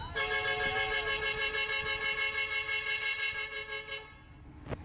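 Vehicle horn sounding one long steady blast of about four seconds, then cutting off abruptly.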